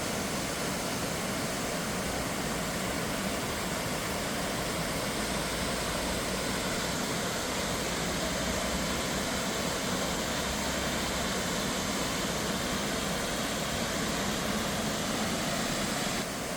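Steady roar of a 20-foot waterfall, Marshalls Falls, cascading through a narrow rock gorge.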